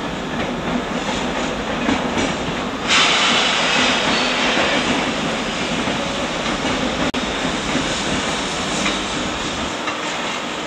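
Train running on rails: a steady rail noise with some clatter, which turns suddenly louder and hissier about three seconds in.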